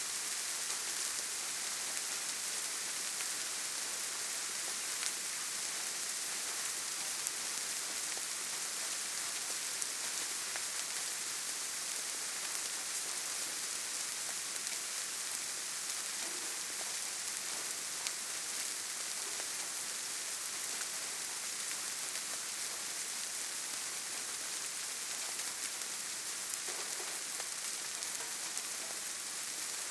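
Steady rainfall, an even hiss of many small drops pattering on surfaces, without letting up.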